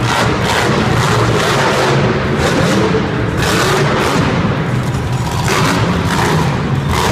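Monster truck engine running hard at high revs, a loud rough rumble with repeated surges as the throttle is worked.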